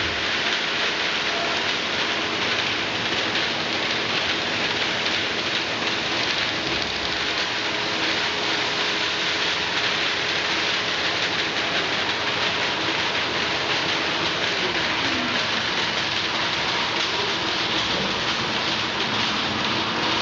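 Glass bottles crowding and clinking against one another on a rotary bottle turntable, a dense steady rattle of glass, with the machine's drives humming steadily underneath and one tone sliding down in pitch about 15 seconds in.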